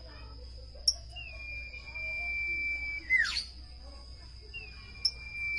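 Common iora singing: a sharp high note, then a long, level whistle that ends in a quick downward slur; the phrase starts again near the end. A steady high-pitched tone runs underneath.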